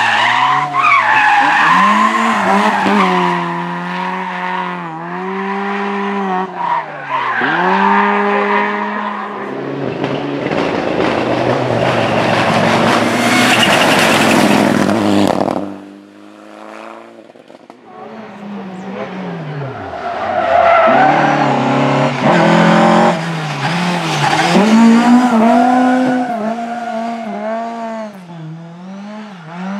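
Rally car engine revving hard with repeated rises and drops in pitch as it shifts gear, a surge of tyre noise about halfway, then fading sharply. A rally car's engine then approaches and revs hard again through the gears.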